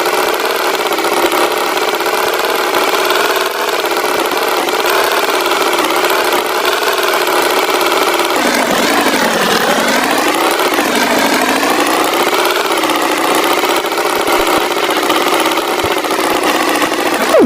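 Tractor engine running steadily. Its pitch drops about halfway through and then climbs back, as if the engine slows and picks up speed again.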